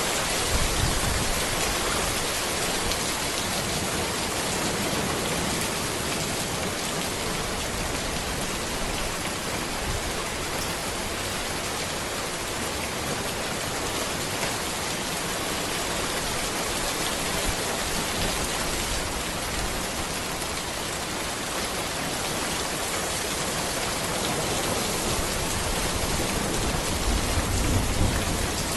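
Steady rain falling on a road, an even hiss with a slight swell in the low rumble near the end.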